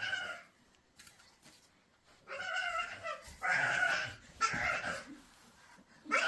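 A domestic animal crying out four times in short, drawn-out calls, with a pause after the first.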